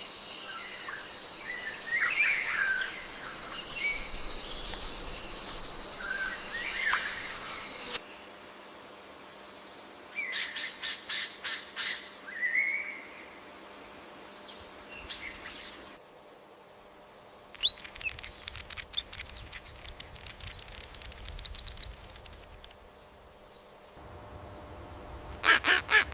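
Birds chirping and calling, with quick runs of repeated notes, over a steady high hum. The background changes abruptly every eight seconds or so.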